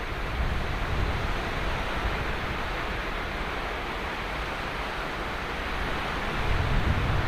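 Ocean surf breaking and washing on a sandy beach, a steady hiss of water with a deep low rumble; a wave swells louder near the end.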